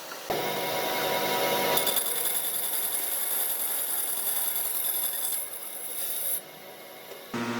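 Tools working wood in a run of short clips: a steady rasping, abrasive noise that changes abruptly several times, drops quieter about six seconds in, and switches to a lower-pitched machine sound near the end.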